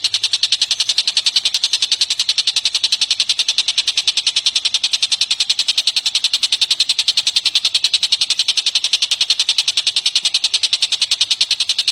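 Songbird calling in a fast, even, unbroken series of high, shrill notes, several a second.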